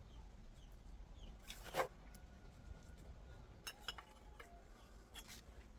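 A few light scrapes and metallic clinks from hand tools working brick and mortar: one louder scrape about two seconds in, then a quick cluster of clinks with a brief ringing about four seconds in.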